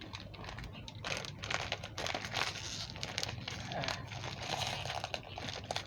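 Plastic snack wrapper crinkling as it is handled, a dense run of irregular crackles starting about a second in.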